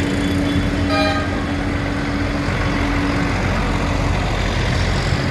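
Tractor diesel engines running as they go past, a steady low rumble with a hum that fades out about three and a half seconds in. A short horn toot sounds about a second in.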